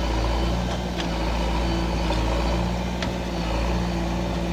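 Heavy diesel engine running steadily at idle, with a faint click about a second in and again about three seconds in.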